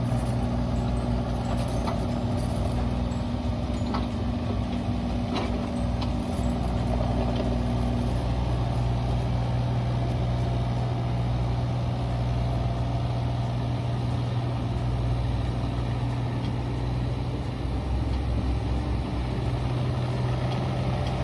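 Mini excavator's diesel engine running steadily, with a few short clicks in the first several seconds.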